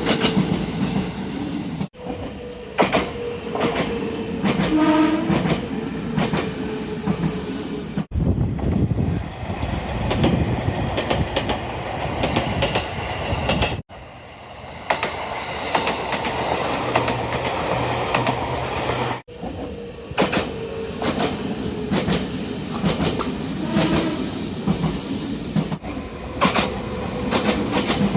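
Nagano Electric Railway express electric trains running on the line, their wheels clacking over rail joints. The sound is a series of short separate recordings that cut abruptly every few seconds.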